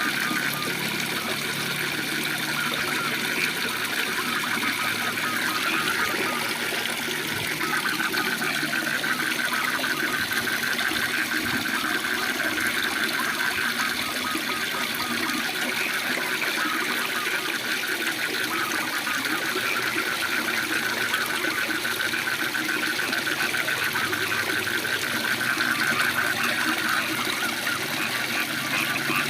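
Waterfall rushing steadily, with a dense chorus of rapid pulsing frog calls over it.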